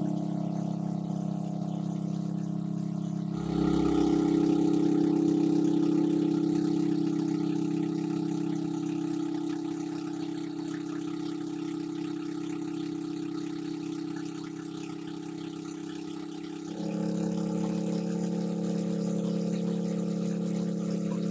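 A small engine running steadily at a constant speed, with its hum changing abruptly twice, about three seconds in and again near the end.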